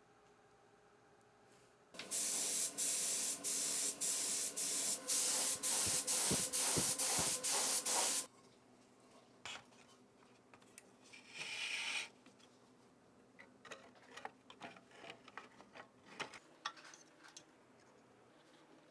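Spray paint hissing from a nozzle in one long spell of about six seconds, broken by many brief gaps, then a second short burst of about a second. Light scattered clicks and taps follow near the end.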